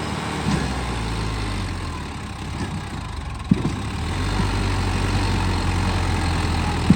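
Tractor diesel engine idling steadily, a little louder from about halfway through, with two brief clicks.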